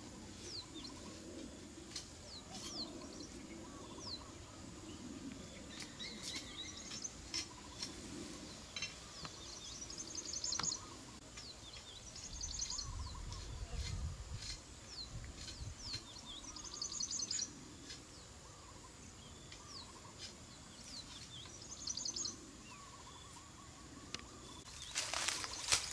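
Birds chirping: scattered short, sliding chirps, with a quick trill of repeated notes every few seconds.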